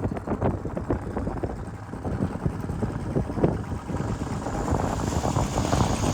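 Road and wind noise of a moving vehicle, with irregular knocks and rattles.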